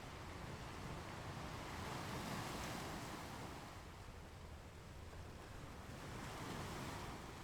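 Ocean surf washing onto a beach. The waves swell twice, about two seconds in and again near the end, over a steady low rumble.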